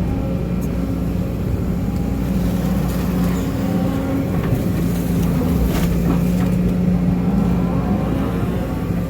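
Case CX210D excavator's diesel engine running steadily under digging load, its note shifting slightly as the hydraulics work the bucket. A couple of light knocks come from the bucket or arm.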